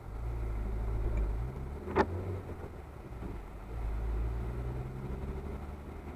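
Car engine heard from inside the cabin as the car pulls away and accelerates, its pitch rising, dropping, then rising again. One sharp click about two seconds in.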